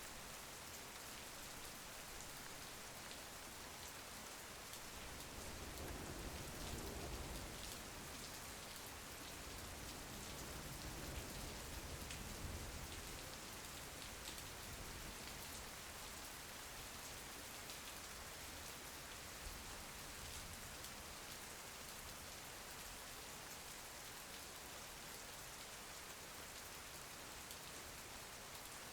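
Steady rain pattering on a window, a soft even hiss of drops. A low rumble swells up twice in the first half.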